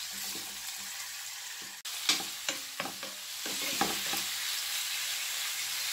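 Baby squid sizzling in hot oil in a frying pan, stirred with a wooden spoon. A few sharp knocks of the spoon against the pan come about two to four seconds in, and the sizzle grows louder toward the end.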